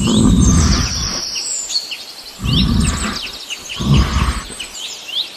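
Several small birds chirping and twittering in many quick, high, sweeping notes, with a low rumbling noise that comes and goes three or four times.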